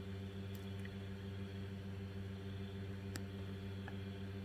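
A steady low hum with evenly spaced overtones and a couple of faint clicks.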